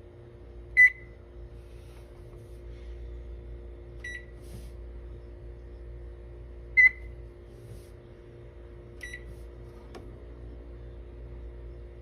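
Short, high single beeps, four of them a few seconds apart at uneven intervals, over a steady low hum.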